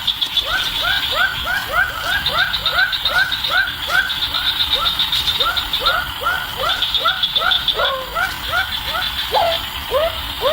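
An animal calling in a quick, even series of short rising notes, about three a second, over a higher pulsing insect-like trill that comes and goes.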